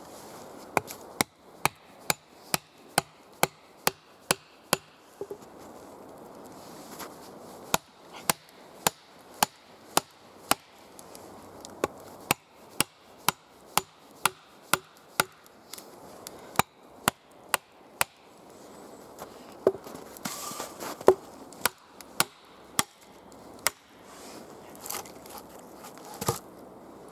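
Wood being chopped with an axe: runs of sharp, evenly paced blows, about two a second, broken by short pauses.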